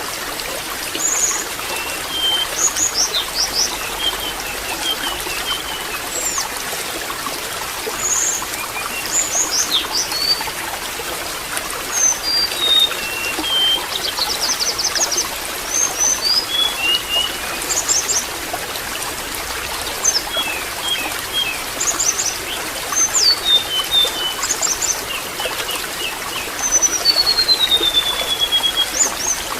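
Water trickling steadily, with small songbirds giving short chirps and trills over it throughout, and one long falling call near the end.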